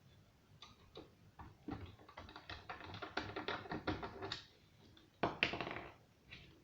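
Irregular run of light taps and clicks from hands working on small parts, quickening in the middle, then one louder, longer clatter a bit past the middle.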